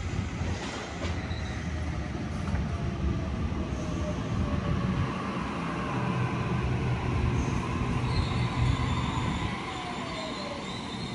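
Waratah double-deck electric train running into the platform: a steady rumble of wheels on the rails, with a faint whine that falls in pitch in the second half as the train slows.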